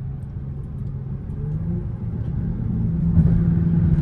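Car engine and road noise heard from inside the cabin as the car accelerates hard at highway speed, the engine note rising in pitch and getting louder about three seconds in.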